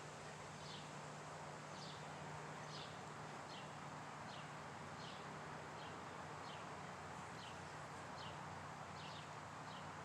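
A bird calling: short, high notes that slide downward, repeated about one to two times a second, over a faint steady low hum.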